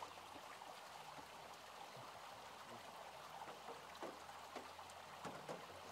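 Light rain falling: a faint, steady hiss with a few scattered drips.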